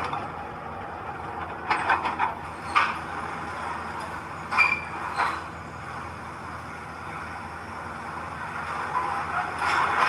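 Diesel heavy machinery running steadily, with a series of sharp metallic clanks and knocks and one brief squeal about halfway through.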